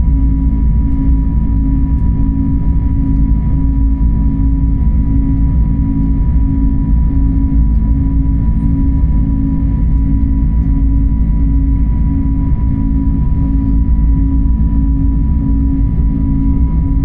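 Steady engine and airflow noise inside a passenger jet's cabin: a loud, even low rumble with a constant hum over it.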